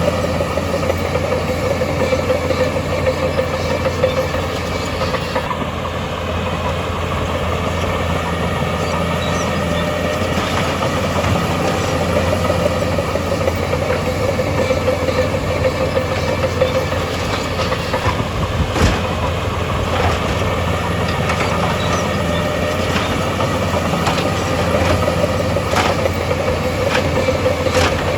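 Heavy diesel earthmoving machinery running steadily under load, with a few sharp clanks, a handful of times.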